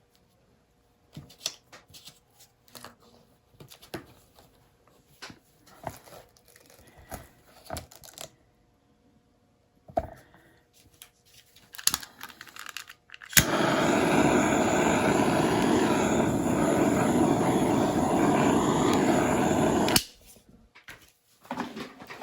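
Light scattered clicks and taps of cups and tools, then a small electric motor runs loudly and steadily for about six seconds, switched on and off abruptly.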